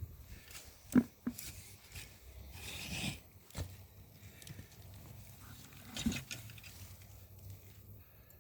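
A garden digging tool working soil in a potato bed: a few scattered knocks and scrapes, the loudest about a second in, with a short scratchy rustle around three seconds.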